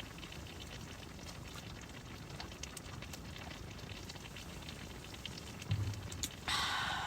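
A person drinking ice-cold, half-frozen makgeolli: a soft low gulp about six seconds in, then a short breathy exhale near the end. Under it runs a faint, steady crackle of fine ticks.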